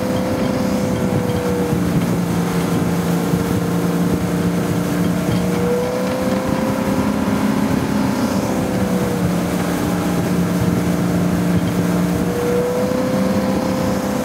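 Ski boat's inboard engine running steadily at towing speed, over the rush of water and wind. Its pitch swells slightly a few times.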